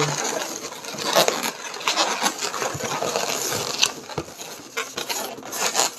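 Inflated latex twisting balloons rubbing and squeaking against each other as they are twisted and pushed through a loop, in a string of short squeaks and scrapes.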